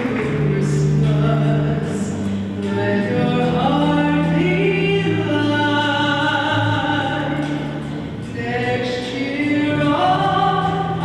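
A choir singing in parts, holding long, sustained notes.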